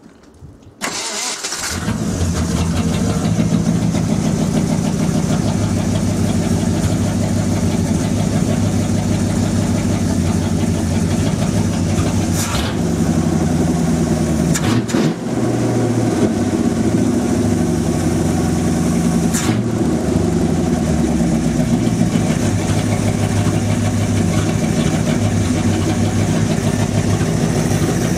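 ZMZ-523 4.7-litre V8 with an H-pipe exhaust started about a second in: a short crank, then it catches and settles into a steady idle.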